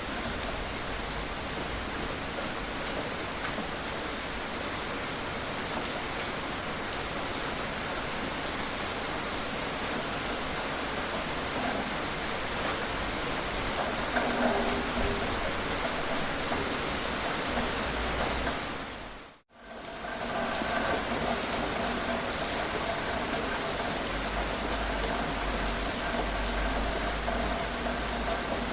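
Steady rain falling, with scattered drops ticking through the even hiss. It fades out and straight back in once, about two-thirds of the way through.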